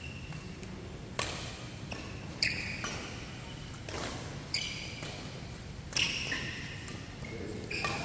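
Badminton rally: rackets hitting the shuttlecock in sharp cracks about every second or two, with short high squeaks in between, in a large hall.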